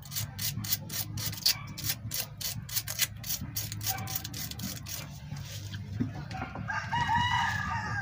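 Sandpaper rubbed in quick strokes, several a second, over the worn metal pin of a distributor to clean its contact. Near the end a rooster crows.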